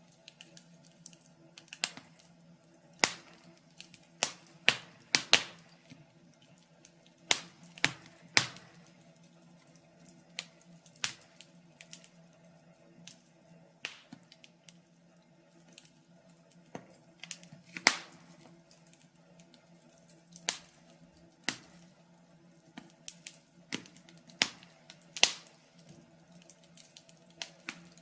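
Wood fire crackling: burning logs giving off irregular sharp pops and snaps, some in quick clusters, with quieter spells between them, over a faint steady low hum.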